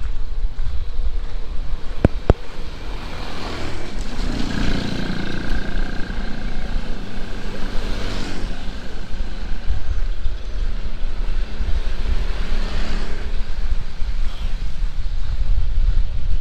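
Heavy rain with strong wind buffeting the microphone, while a motor vehicle passes from about three seconds in, its engine fading out after about thirteen seconds.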